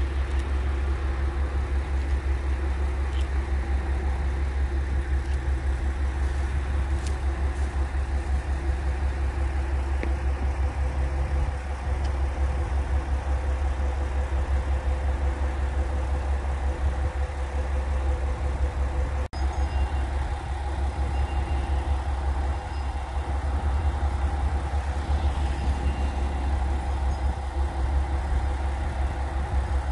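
Diesel railcar engine idling steadily with a deep low rumble and a steady hum. The sound drops out for an instant about 19 seconds in.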